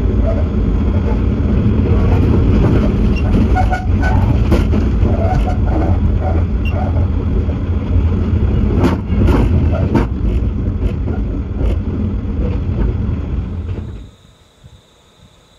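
Rumble and rattle of a moving train heard from on board, with wheels clicking irregularly over the track. About fourteen seconds in it drops abruptly to a faint outdoor hiss.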